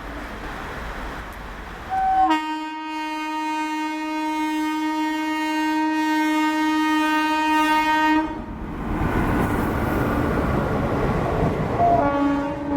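WAP-4 electric locomotive's horn sounding: a brief higher note leads into a long, steady low blast of about six seconds. A rushing noise from the running train follows, then a second blast starts near the end with the same short high note before the low one.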